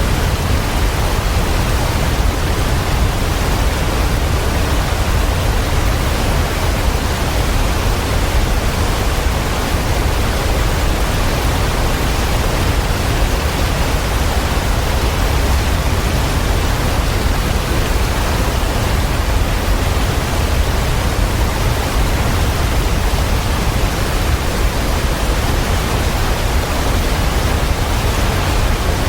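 Waterfall: a steady, unbroken rush of falling water with a strong deep rumble underneath.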